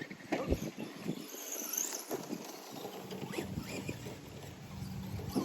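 Traxxas Bigfoot RC monster trucks driving, their brushless electric motors whining up in pitch as they accelerate, with knocks and patter from the tyres and chassis over the ground. The low motor hum cuts out about a second in and comes back around the three-second mark.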